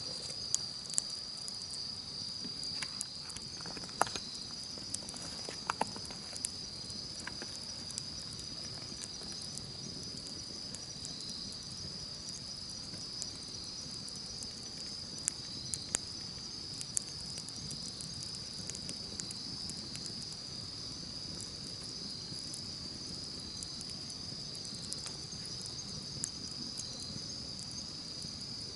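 Campfire crackling with scattered sharp pops, busiest in the first several seconds and again around the middle. Under it runs a steady high-pitched chorus of insects.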